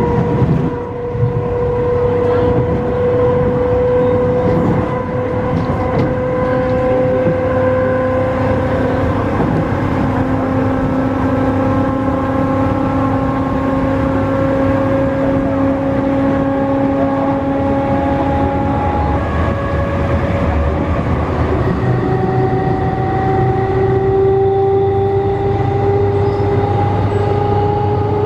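Nose-suspended traction motors of an MTR East Rail MLR electric multiple unit whining under acceleration. The gear-and-motor tones climb slowly in pitch over a steady rumble of the running train. About three-quarters of the way through, the whine drops to a lower pitch and starts climbing again.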